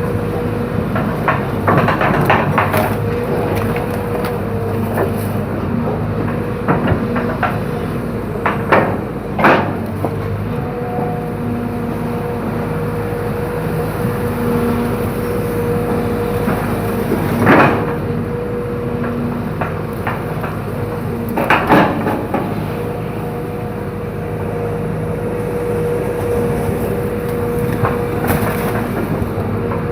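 Hydraulic excavator's diesel engine running steadily under load, with scattered knocks and cracks as the machine works. Three of them, about ten, seventeen and twenty-one seconds in, are the loudest.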